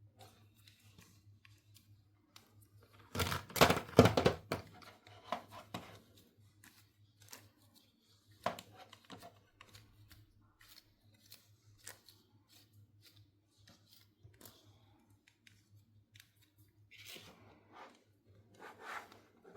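Toy packaging being opened by hand: a loud burst of tearing and rustling about three seconds in, then scattered small clicks and rustles of handling, and another rustling burst near the end.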